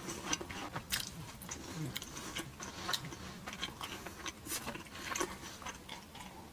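Close-miked chewing of crunchy food, with many small, irregular crunches and wet mouth clicks.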